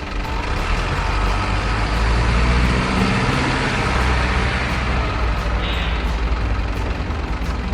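A truck engine running with a steady low rumble.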